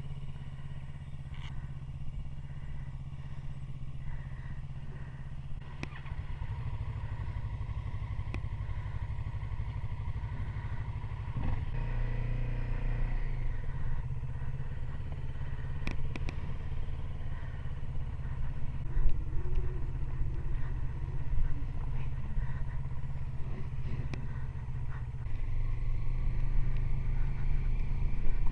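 Motorcycle engine running under way, a steady low drone that grows a little louder a few times.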